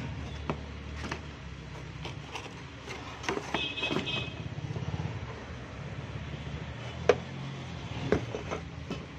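A vehicle engine running steadily at low revs, with scattered footsteps and knocks over it, the sharpest knock about seven seconds in.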